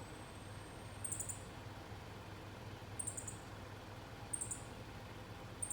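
Short, very high-pitched chirps from a small wild creature, four of them a second or two apart, over a faint steady low hum.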